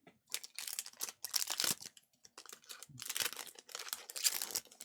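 Foil wrapper of a Panini Revolution basketball card pack crinkling and tearing as it is handled and torn open, in two spells of rustling.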